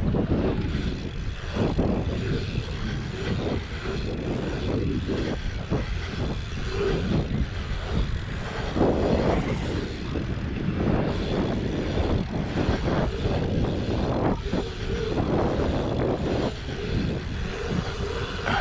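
Wind buffeting the microphone of a helmet-mounted action camera while riding a BMX bike, a rushing rumble that rises and falls with speed.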